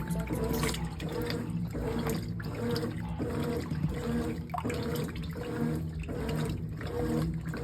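Brastemp 18 kg top-load washing machine agitating a full load in water: the agitator swishes back and forth in an even rhythm of about one and a half strokes a second, with steady sloshing of the wash water.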